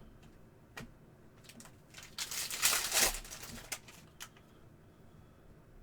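Trading cards and their packaging being handled: a few light clicks and taps, with a louder crinkling, rustling swish about two seconds in lasting around a second.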